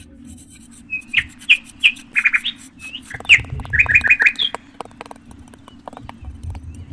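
Small birds chirping: quick runs of short chirps, bunched from about a second in until past the midpoint, over a low steady hum.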